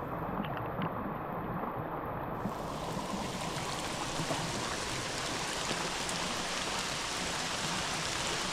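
Steady hard rain falling, mixed with the rushing of a flood-swollen, muddy creek. The sound is dull and muffled for the first two seconds or so, then opens up.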